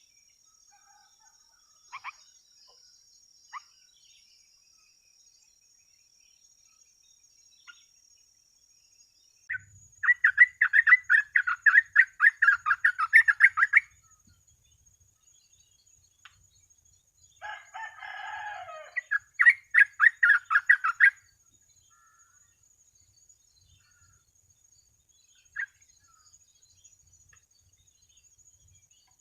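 Yellow-vented bulbul (trucuk) singing in two bursts of rapid, repeated chattering notes, one about four seconds long starting ten seconds in and a shorter one near twenty seconds, with a few single chirps between.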